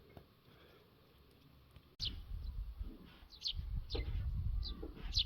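Small birds chirping in short, quick downward-sweeping notes, repeated several times, starting abruptly about two seconds in over a low rumble.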